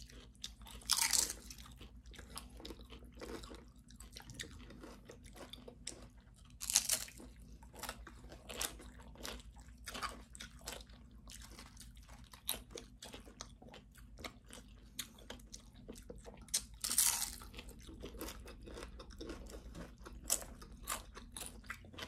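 Tortilla-chip nachos being bitten and chewed: irregular crisp crunches and chewing, with louder crunching bites about a second in, near seven seconds and near seventeen seconds.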